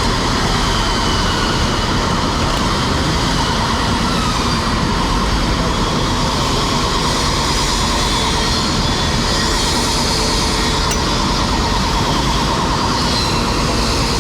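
Fire apparatus at a working fire: the diesel engines and pumps of fire trucks running steadily as a loud, unbroken rumble.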